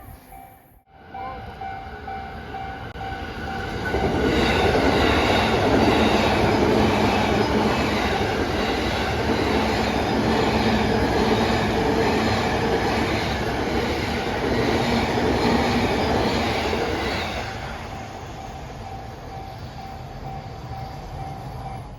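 A level-crossing warning bell rings in a steady repeating pattern. About four seconds in, a train passes through the crossing, its wheels running loud over the rails for around thirteen seconds. The train noise then fades and the crossing bell carries on.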